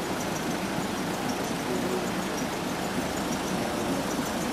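Steady engine and road noise, like a vehicle idling, with faint high chirps repeating a few times a second over it.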